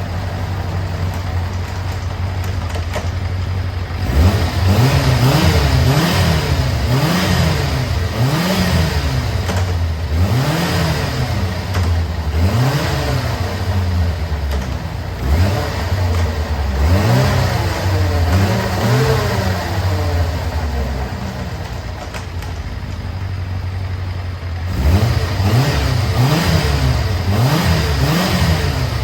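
Kawasaki ZZR400 (ZX400K) inline-four engine running on a start-up check. It idles steadily at first, then about four seconds in is revved in quick throttle blips, about one a second. It settles back to idle around twenty seconds in, then is blipped again near the end.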